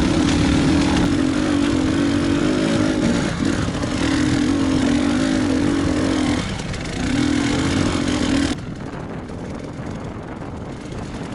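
KTM enduro motorcycle engine running as it is ridden along, with a steady note that dips briefly a couple of times. The sound drops sharply to a quieter level about eight seconds in.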